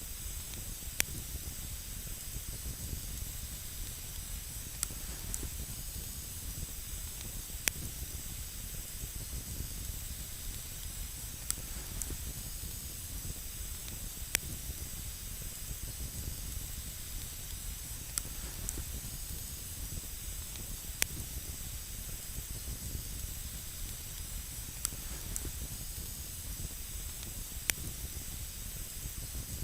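Wood campfire burning with a steady hiss and scattered sharp crackling pops, about one every two seconds or so.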